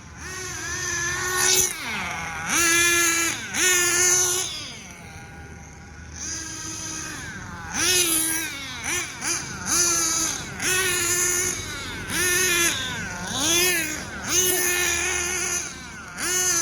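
Hobao Hyper VS nitro RC buggy engine being blipped again and again during break-in. A high-pitched whine rises, holds and falls back in about a dozen short bursts, with quieter dips between them.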